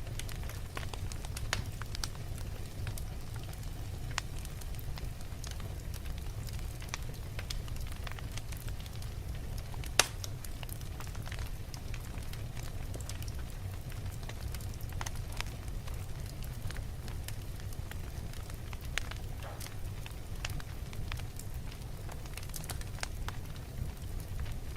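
Wood fire burning in a fireplace: a steady low rumble of flames with scattered crackles and snaps, and one sharp pop about ten seconds in.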